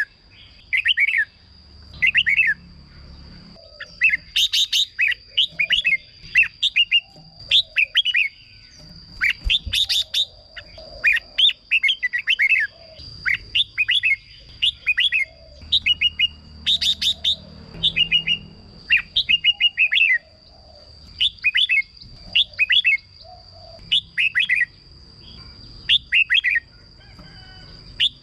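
Red-whiskered bulbul singing: short, quick, whistled phrases repeated about once a second, with a few sharper, brighter notes among them. A steady high thin tone runs underneath.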